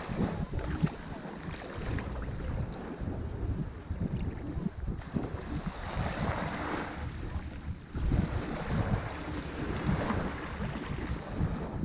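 Ocean waves breaking and washing on a shore, with wind buffeting the microphone into an uneven low rumble. The wash swells about six seconds in and again near ten seconds.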